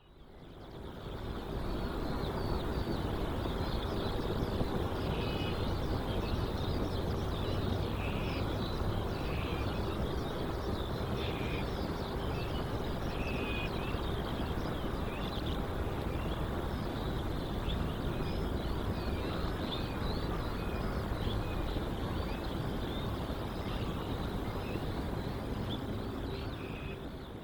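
Outdoor airport ambience: a steady rumble and hum of distant jet aircraft engines, with small birds chirping throughout. It fades in at the start and fades out near the end.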